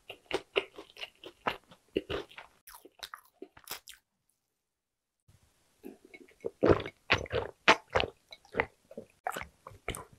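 Close-miked mouth sounds of someone chewing sticky Korean yakgwa honey cookies. After a short silent break about four seconds in, there is a run of loud gulps, about three a second, as a drink is swallowed from a glass, followed by a few more wet mouth clicks.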